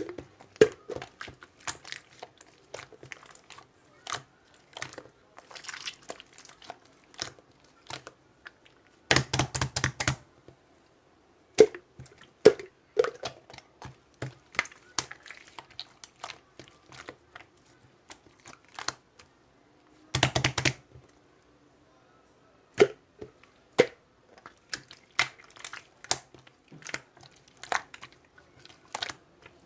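Hands squeezing, stretching and folding marbled slime, making irregular sticky clicks and small pops, with two denser bursts of crackling about a third and two thirds of the way through.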